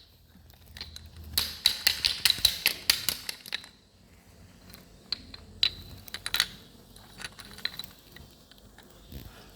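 Small toy cars and trucks being handled, knocking against each other and a surface. A quick run of light clicks and clatters comes about a second in, then a few scattered knocks.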